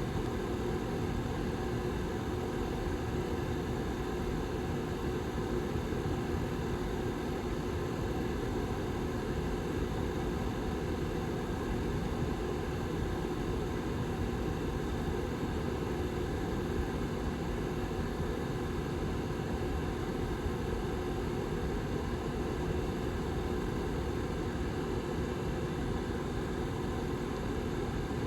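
Back fan of a Lasko Model 755320 tower heater running steadily: an even rush of air with a low hum and two faint steady tones.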